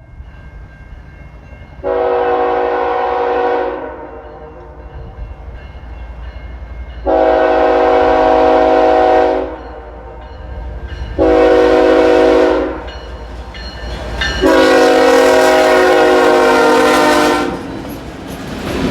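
Diesel freight locomotive's air horn blowing the grade-crossing signal, long, long, short, long, over the low rumble of the locomotives.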